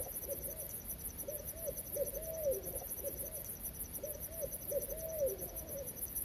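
An owl hooting in two rhythmic phrases of short arched hoots, each ending in a longer hoot that drops in pitch, over a steady high, rapidly pulsing trill.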